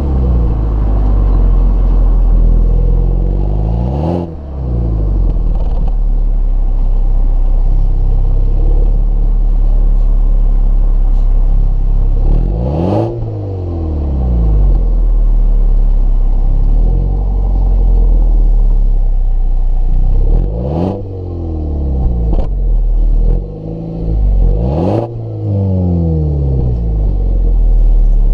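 2015 MINI Cooper S exhaust, its 2.0-litre turbocharged four-cylinder engine revved again and again, the pitch sweeping up and down, with a short sharp crack at about five points.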